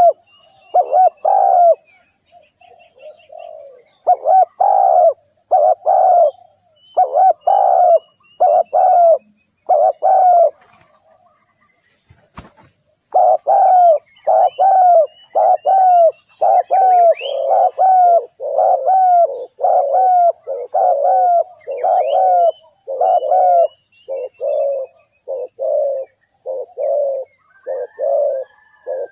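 Spotted doves cooing in repeated phrases of short, low coos. The coos pause for a couple of seconds around the middle, with a single click in the gap, then run on in a longer, quicker series. Faint high chirps of small birds sound above them.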